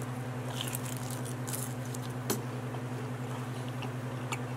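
Close-miked chewing of a bite of pepperoni pizza: small wet mouth clicks and smacks, one a little louder about halfway through, over a steady low hum.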